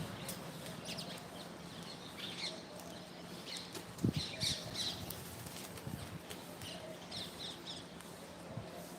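Birds chirping in short, repeated calls, with scattered clicks and a louder thump about four seconds in.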